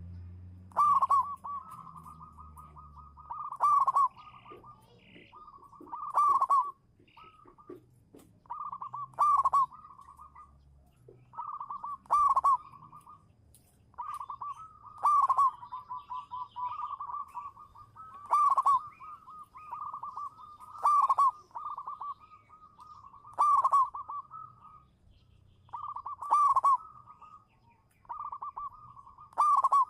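Zebra dove (perkutut) singing its cooing song: a rapid, rolling series of coos with a loud accented note, repeated about every three seconds.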